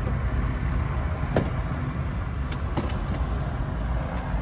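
Steady low rumble of a tour helicopter running on the ground before takeoff, with a few sharp clicks.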